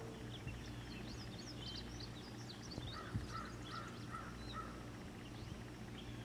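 Birds chirping in short, quick calls, with a run of four or five lower calls about three seconds in, over a faint steady low hum.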